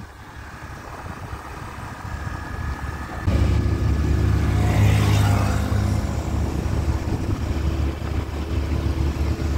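A vehicle's engine and road noise: a quieter hum for about three seconds, then a sudden step up to a louder, steady engine drone that holds to the end.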